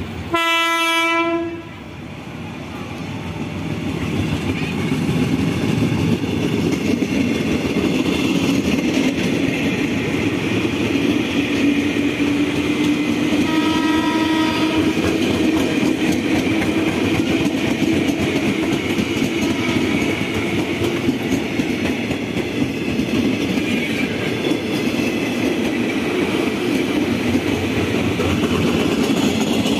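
A train horn sounds once, loud, for about a second. Then a KRL commuter electric train passes close by: a steady rumble with wheel clatter on the rails. Near the middle there is a fainter second horn, and a faint whine slowly rises in pitch.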